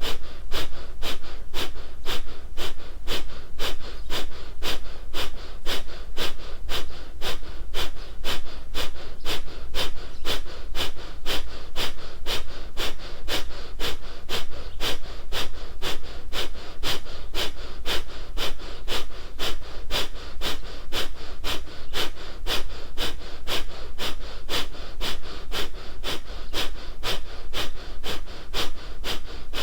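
Kapalbhati pranayama breathing: rapid, forceful exhalations through the nose in a steady, even rhythm of about two a second, each a short sharp puff, with the inhalations passive between them.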